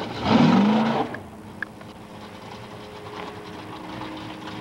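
A car engine revs briefly, rising in pitch, then settles into a steady idle. A sharp click comes near the end.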